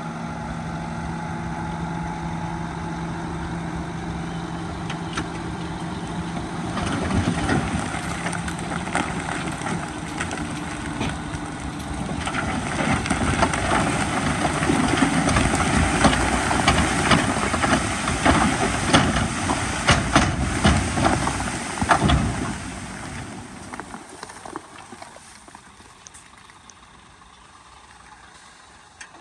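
A heavy diesel earthmoving machine's engine runs steadily. From about seven seconds in, a loud clattering of rock starts, with many sharp knocks as stone tumbles and scrapes. It is loudest in the middle and dies away a few seconds before the end, leaving the engine running quietly.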